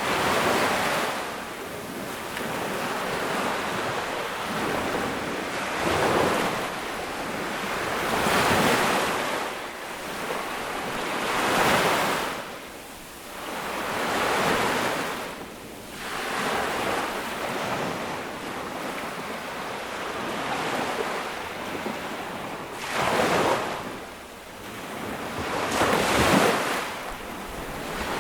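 Ocean waves breaking on a beach, one swelling wash after another every few seconds, with a steady hiss of surf between them and some wind on the microphone.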